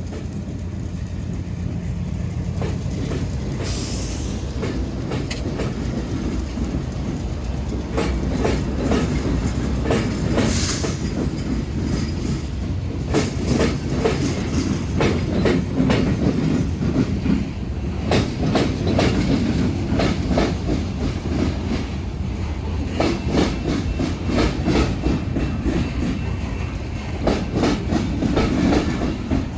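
Freight train wheels clattering over a railroad diamond crossing: rapid, uneven sharp clacks over a steady rolling rumble, with brief high-pitched hisses about 4 and 10 seconds in.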